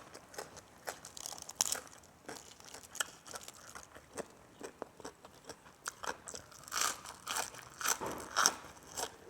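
A person chewing and biting crunchy food close to the microphone: wet mouth clicks and crunches, louder in a cluster of bites about seven to eight and a half seconds in.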